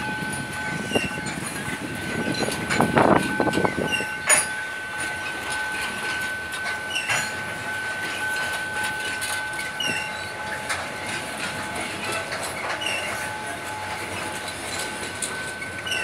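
Freight train of covered hopper cars rolling past, wheels clacking over rail joints, with a steady high-pitched tone held throughout. About three seconds in the rumble briefly grows louder.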